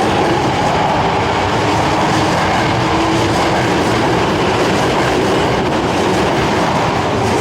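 Subway train running along an underground station platform, its wheels clattering over the rail joints with a loud, steady rumble. A motor whine fades early on.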